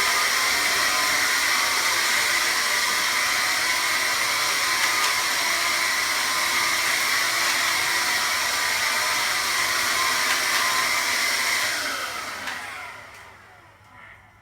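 Vax cordless stick vacuum cleaner's motor running steadily with a high whine, then switched off about twelve seconds in, winding down over a couple of seconds.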